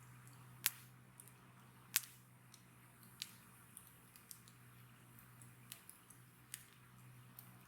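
Wood bonfire crackling: sharp single pops every second or so, the two loudest in the first two seconds, over a faint steady hiss.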